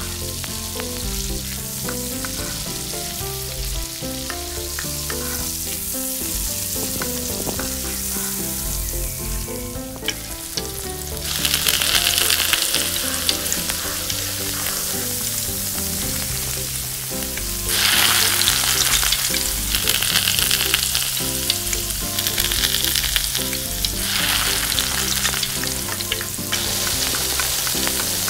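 Food frying in a tiny miniature pan: a steady oil sizzle that swells louder twice, once about a third of the way in and again past the middle, with soft background music underneath.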